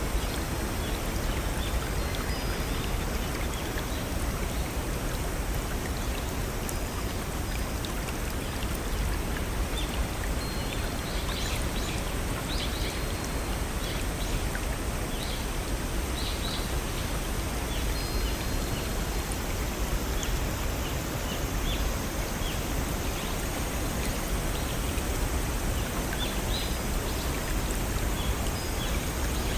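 Small waterfall on a brook, water splashing and running steadily, with frequent short, high bird chirps scattered over it.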